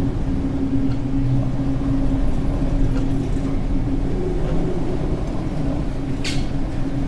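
Steady low machinery drone with a constant hum, and a brief high squeak about six seconds in.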